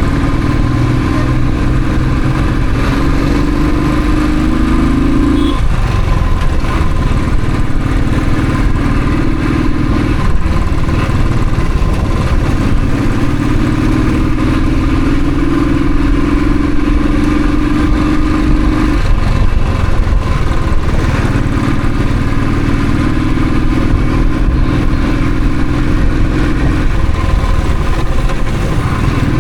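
Royal Enfield Thunderbird single-cylinder motorcycle engine running under way. Its note climbs slowly as the bike pulls through each gear, then drops sharply at each upshift, about four times.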